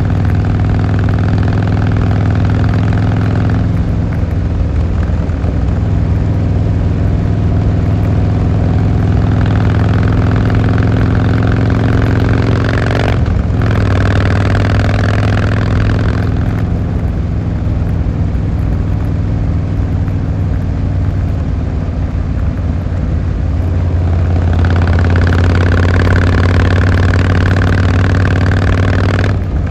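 Harley-Davidson Fat Boy Lo's V-twin engine and exhaust running under way on the road. The pitch climbs slowly, drops back with a brief break about 13 seconds in, as at an upshift, and breaks again near the end.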